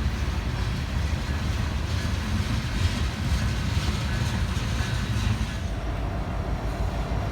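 Freight train rolling past, a steady rumble of wheels on rail.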